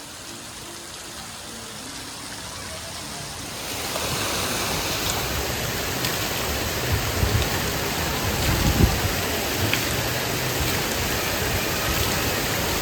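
Steady rush of splashing, running water, a hiss that gets clearly louder about four seconds in and then holds, with a few soft thumps.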